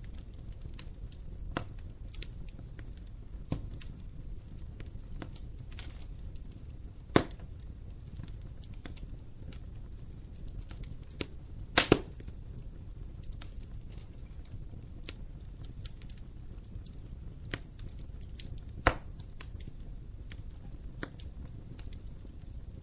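Wood fire burning in an open fireplace: steady low rumble of the flames with frequent sharp crackles and pops, the loudest about 7 seconds in, a double pop about 12 seconds in, and another near 19 seconds.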